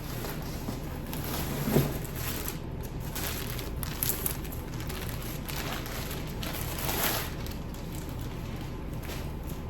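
Packaging being handled, with a few short rustles over a steady low hum.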